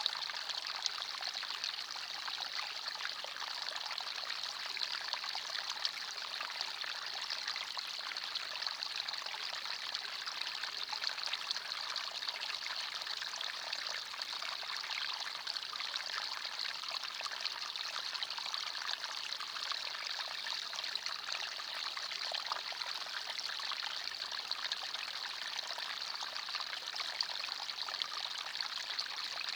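Small forest stream running over stones, a steady babbling and trickling rush of water.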